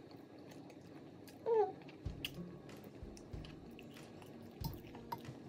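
Close-up mouth sounds of a person eating soft pappardelle pasta: wet smacks and small clicks of chewing, with a short hummed "mm" about a second and a half in. Several dull low thumps follow later.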